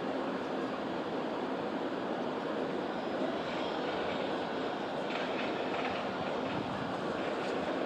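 Shinkansen train moving along the platform with a steady, even rumble and faint wheel-on-rail clicks.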